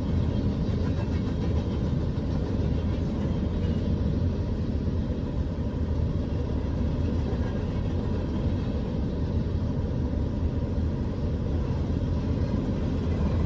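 Empty coal train rolling past, a steady low rumble with no breaks.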